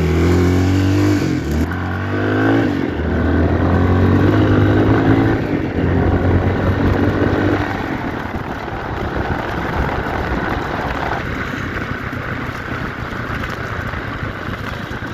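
1990 Yamaha XT350's single-cylinder four-stroke engine accelerating, its pitch rising several times as it pulls through the gears. After about seven seconds a steady rushing wind noise takes over.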